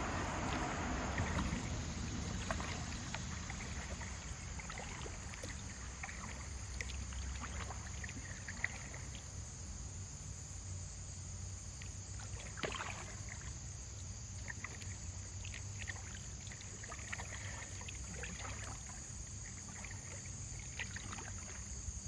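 Kayak paddling in a shallow creek: the paddle dipping and splashing, with scattered light drips and knocks. A steady high insect drone runs underneath.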